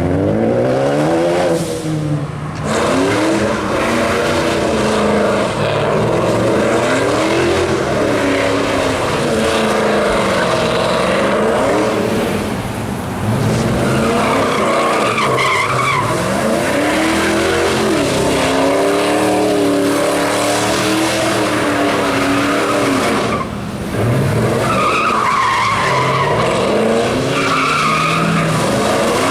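A car spinning donuts: its engine revs up and down over and over, with tyres squealing on and off. The squeal comes through most plainly in the second half.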